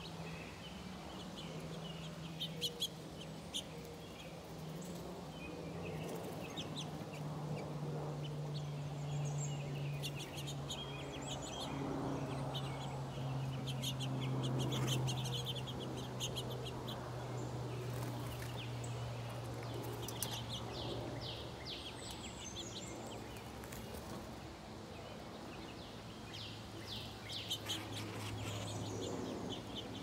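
Small birds chirping around a bird feeder in many short, high calls, busiest in flurries near the end. Under them runs a steady low hum that slowly drops in pitch.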